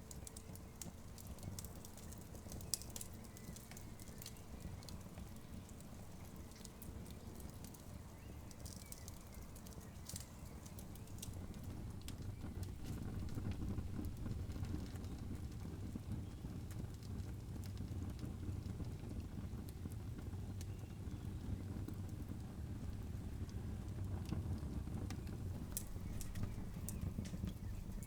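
Campfire crackling: scattered sharp pops and snaps over a steady low rumble, which grows louder about twelve seconds in.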